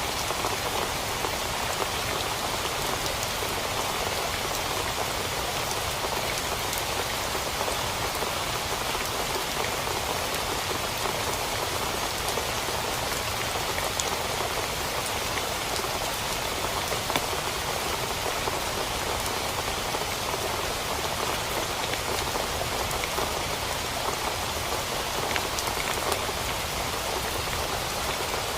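Steady heavy rain drumming on a tent, with scattered sharp drop ticks.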